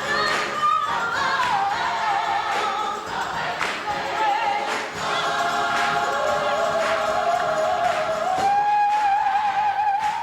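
Gospel choir singing, with voices holding long notes with vibrato; about eight seconds in the melody steps up to a high held note that lasts to the end.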